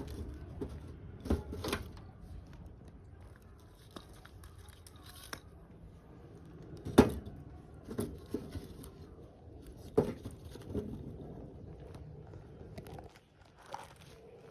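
Irregular knocks, clicks and crunches of things being handled by hand, with the loudest knock about seven seconds in.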